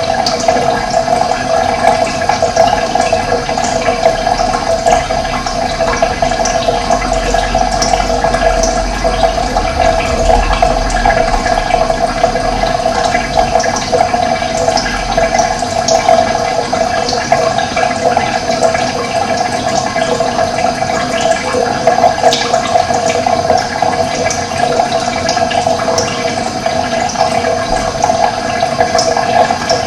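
Running water flowing steadily, a continuous splashing rush with small high flicks of spray through it.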